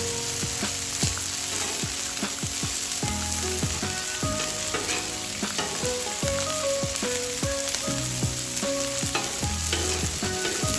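Deer patties, smoked sausage and bacon sizzling in grease on a Blackstone steel flat-top griddle, a steady crackling hiss. A metal spatula scrapes and taps the griddle again and again as the sausage pieces are turned.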